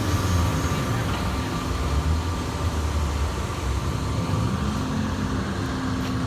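Caterpillar 329EL hydraulic excavator's diesel engine running steadily, with its pitch rising a little about four and a half seconds in.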